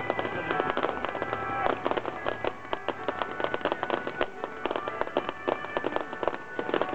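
Fireworks crackling and popping in a dense, irregular stream, with music playing underneath.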